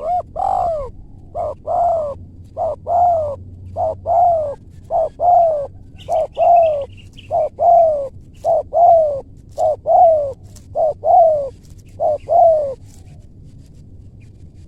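Spotted dove cooing: a steady series of about eleven two-note coos, each a short note followed by a longer falling one, roughly one a second, stopping near the end.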